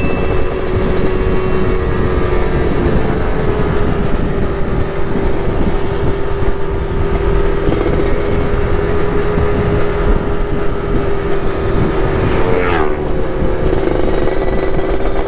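Two-stroke motorcycle engine running at a steady cruise, with wind rumble on the microphone. The engine note drops briefly about 13 seconds in, then settles back to a steady pitch.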